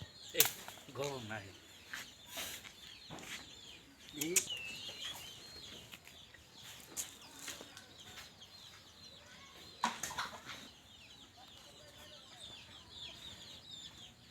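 Chickens clucking, with small birds chirping throughout and a few sharp knocks or rattles.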